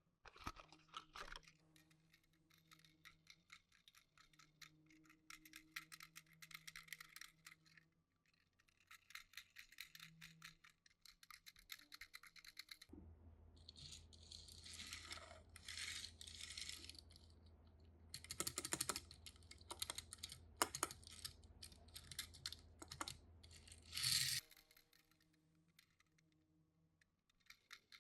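Quiet clicking and rattling of small die-cast toy cars and plastic parts being handled. A steady low hum comes in about halfway through, under busier rattling, and cuts off a few seconds before the end.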